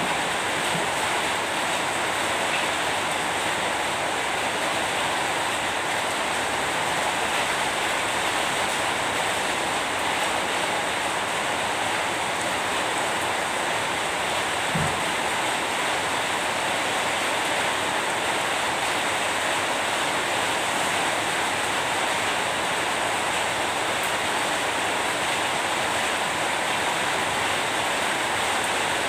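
Steady rain falling, an even hiss with no breaks; a brief low thump sounds about halfway through.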